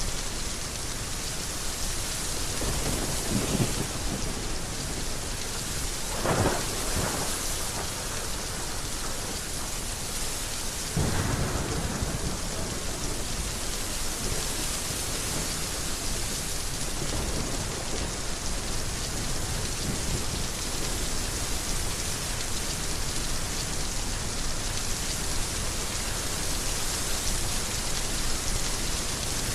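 Heavy rain falling steadily, with thunder rumbling a few times in the first half.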